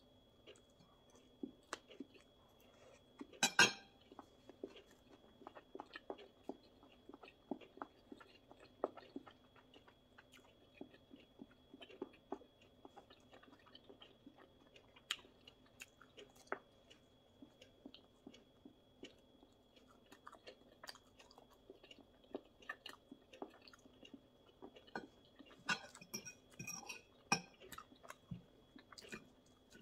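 Close-miked chewing of pizza and salad: many small sharp mouth clicks and crunches scattered irregularly. One louder sharp sound about three and a half seconds in, and a busier run of crisp sounds near the end.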